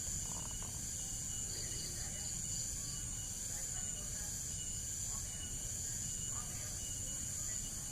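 Insects droning steadily with a continuous high-pitched whine over low background noise, with a few faint chirps a couple of seconds in.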